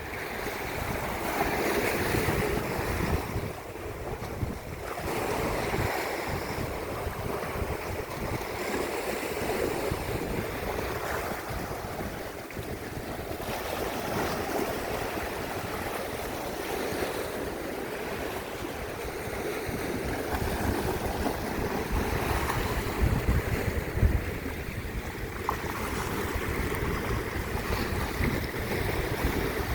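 Sea waves washing in a steady rush, with wind gusting on the microphone.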